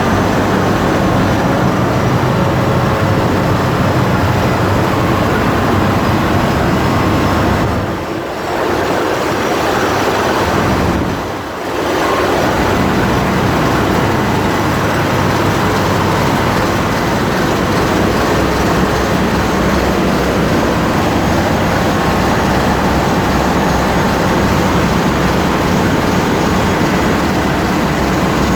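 Marine diesel engine running steadily in a ship's engine room: a loud, continuous drone that dips and is briefly muffled twice, about a third of the way in.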